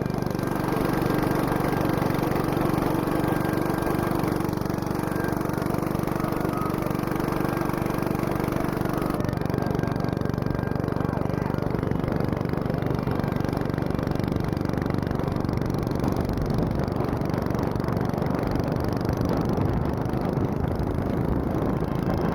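Stock 4 hp go-kart engine running steadily under way, its note shifting slightly about nine seconds in.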